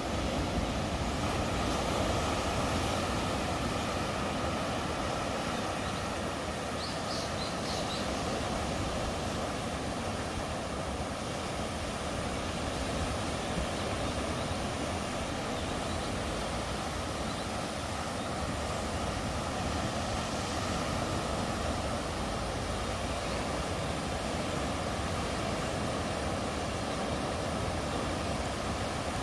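Steady rushing noise of the sea at the shore, even in level throughout.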